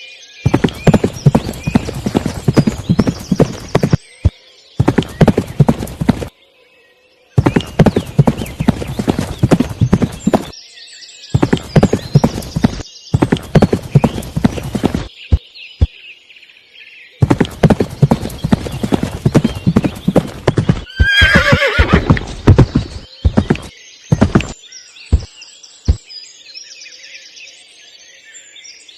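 Bursts of rapid, clattering knocks, each a few seconds long and cut off abruptly, with a drawn-out call that wavers in pitch about two-thirds of the way through. Faint chirping sits in the gaps.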